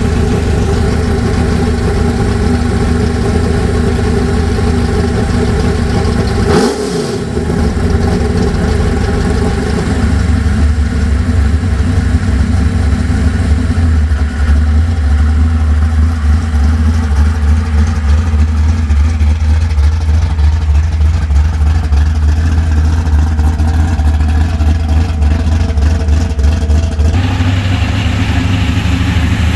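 Car engines idling and moving off at gentle throttle, a steady deep exhaust rumble with no hard revving. It breaks into separate takes, with a short sharp sweep about seven seconds in and a change near the end.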